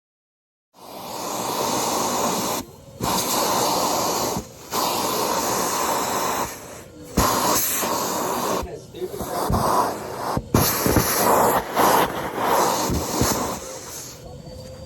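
Numatic Henry cylinder vacuum cleaner starting up about a second in and running with a steady hiss of suction. Its sound dips several times, and short knocks come through in the second half as muck is drawn up the hose.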